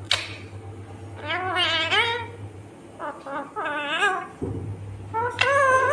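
Indian ringneck parrot calling three times, each a wavering, bending call, the last one about a second before the end.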